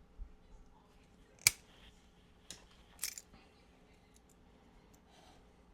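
Speaker wire being cut with a hand tool: a sharp snip about one and a half seconds in, then further snips around two and a half and three seconds.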